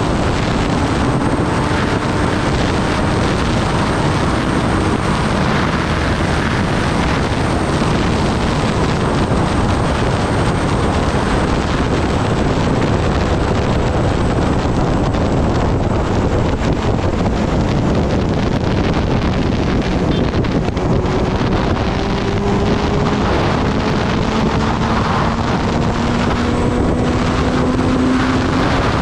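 Steady wind rush on the microphone while riding, with the Kawasaki Ninja ZX-10R's inline-four engine note faintly underneath, its pitch climbing slowly over the last several seconds.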